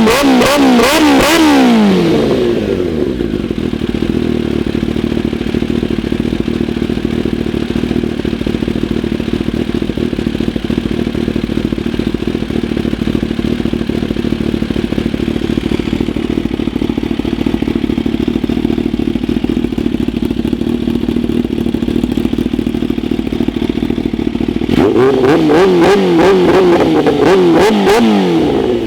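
Kawasaki Ninja H2's supercharged inline-four with a Brock's Performance Spark exhaust, warm, idling steadily. It is blipped through quick revs for the first couple of seconds and again for a few seconds near the end.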